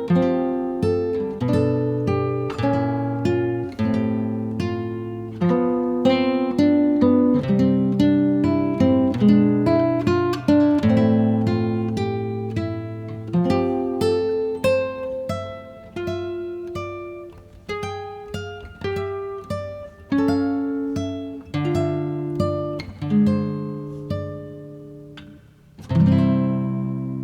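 Background music: an acoustic guitar playing plucked notes and chords, each ringing and fading, with a last chord struck near the end that is left to ring out.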